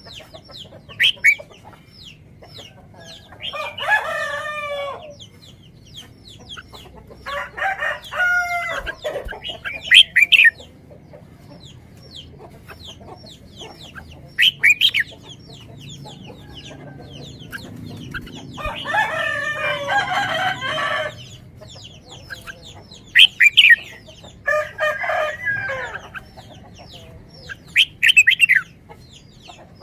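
Chickens calling: about four drawn-out calls of a second or two with a wavering pitch, a few short sharp calls that are the loudest sounds, and quick faint bird chirps between them.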